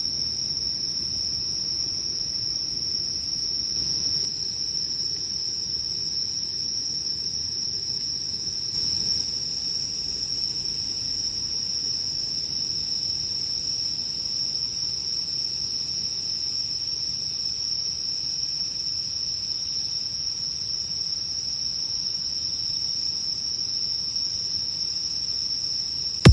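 Singing insects trilling in a steady, unbroken high-pitched chorus, with a faint low background hiss.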